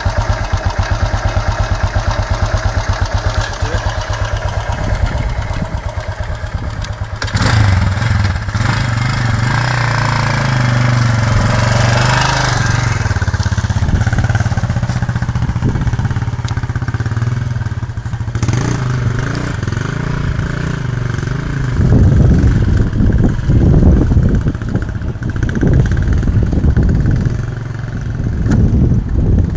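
Yamaha XT500 single-cylinder four-stroke engine idling with distinct, even firing pulses, then about seven seconds in revving up and running harder at varying speed, with louder surges of revs later on.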